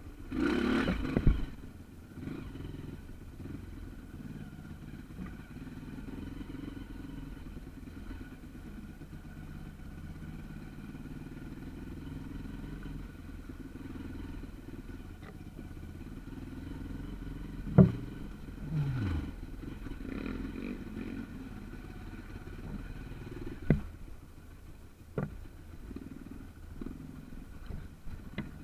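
Small trail motorcycle's engine running steadily at low revs, with a loud burst near the start. A few sharp knocks and clatters come through along the way, and there is a brief falling tone about two-thirds in.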